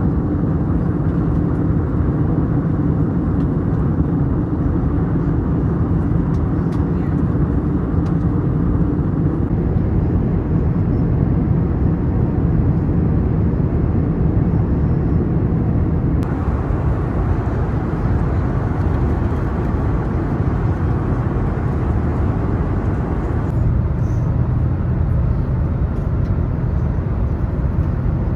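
Steady engine and airflow roar heard inside an Airbus A321neo cabin. Its tone changes abruptly three times, where separate stretches of recording are cut together.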